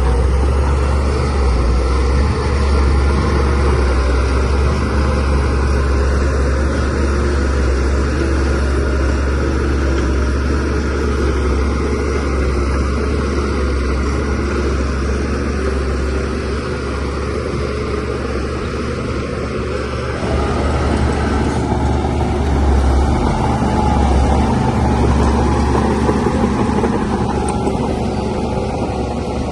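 DH17C3PRO crawler bulldozer's diesel engine running steadily with a deep rumble, getting a little louder and then easing back about two thirds of the way through.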